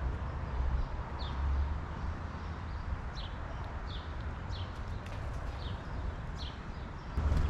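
A songbird calling repeatedly with short, sharp downslurred chirps, about one every half second to a second, over a steady low rumble of outdoor background noise.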